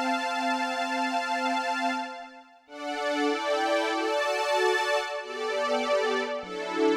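Roland JX-8P analog polysynth playing a factory patch: one low note pulses evenly and dies away about two seconds in. After a short gap a bright, overtone-rich sound plays a moving line of notes and chords.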